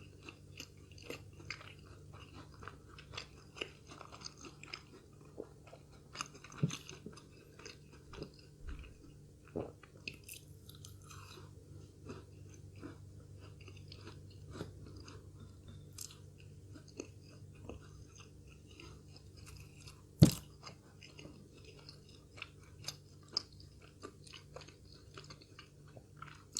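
A person chewing and crunching food close to the microphone, with many small wet clicks from the mouth. A single sharp knock stands out about twenty seconds in.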